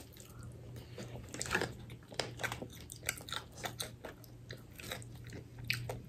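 Fried chicken being bitten and chewed: crisp batter crunching in many small, irregular crackles, with wet mouth sounds.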